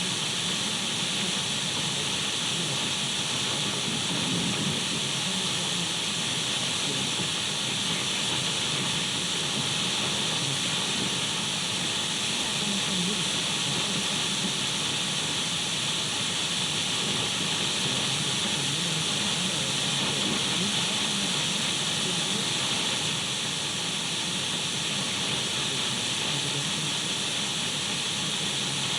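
Untuned radio static: a steady, unbroken hiss, brightest in the upper-middle range, with a faint uneven rumble underneath.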